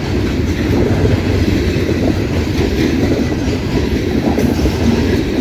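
Loaded coal hoppers of a long freight train rolling past at close range: a steady rumble of steel wheels on the rails with clattering over the rail joints.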